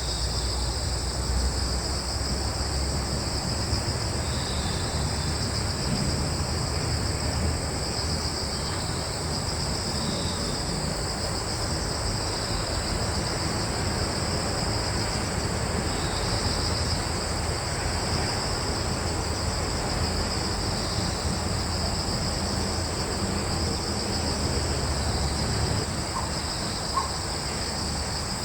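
Steady chorus of crickets, a continuous high-pitched trilling in two bands, over a low steady rumble.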